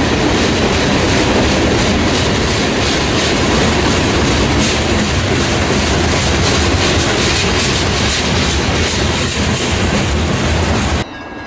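Freight train cars rolling past close by, a loud steady rumble with wheel clatter over the rail joints, cut off suddenly near the end.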